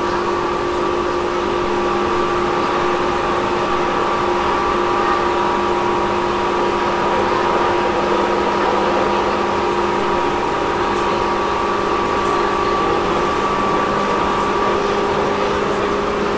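Interior running sound of a Tobu 10000 series electric train car, recorded above its main controller, at a steady speed: an even rolling rumble with several steady humming tones over it. The car's air conditioning is running.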